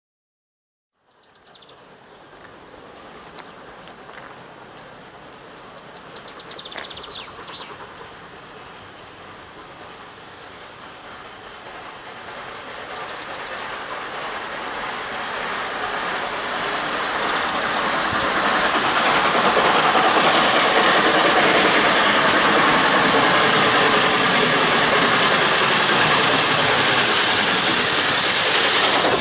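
Steam locomotive-hauled train approaching and running past, its noise growing steadily louder over several seconds and then holding loud, with a strong hiss. Birds chirp faintly before the train is near.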